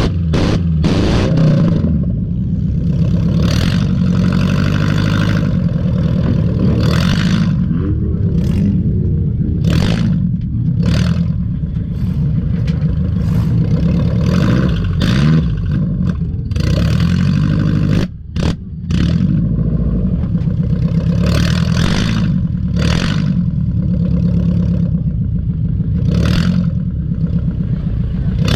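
A race car's engine running hard and revving up and down, with frequent clattering knocks and bangs throughout. The sound cuts out briefly about two-thirds of the way through.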